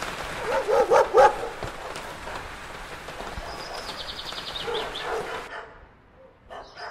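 Animal calls over a steady hiss: a quick run of four short yelping calls about a second in, then a fast high trill a few seconds later. The sound drops almost to nothing for about a second near the end.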